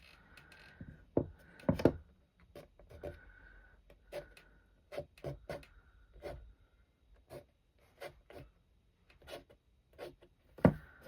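Palette knife scraping and tapping on wet watercolour paper to lift out rock texture: a run of short, irregular scrapes and clicks, one or two a second, the loudest about a second in and near the end.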